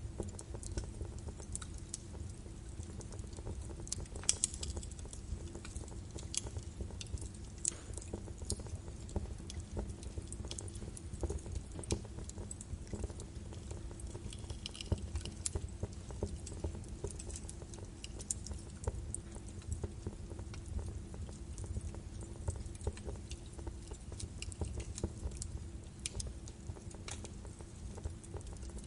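Birch wood fire crackling in a fireplace: irregular sharp pops and snaps over a steady low rumble of burning.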